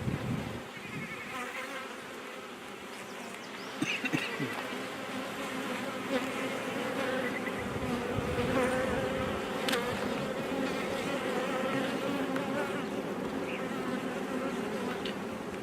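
Honey bees buzzing around an opened hive: a steady, wavering hum that swells a little after about four seconds, with a couple of brief knocks near the start and about four seconds in.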